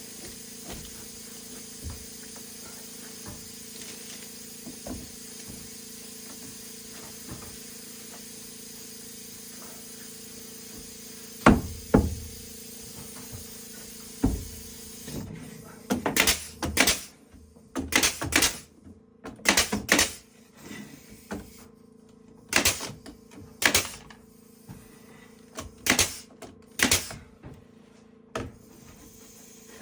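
Hammer blows on wood: two loud knocks about halfway, then a run of about a dozen sharp, irregular knocks over a steady hiss that drops away.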